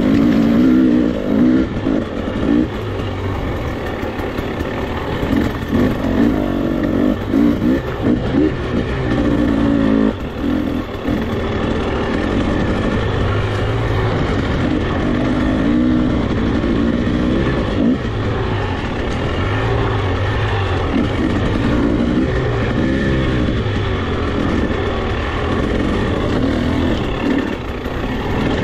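Motorcycle engine running while riding, its pitch rising and falling as the throttle opens and closes, over a steady rushing noise.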